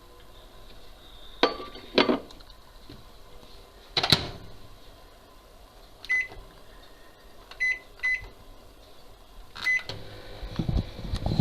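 Microwave oven being loaded and started: a few clunks of the door and dish, the loudest about four seconds in, then four short keypad beeps as the time is set. Near the end the oven starts up with a low hum.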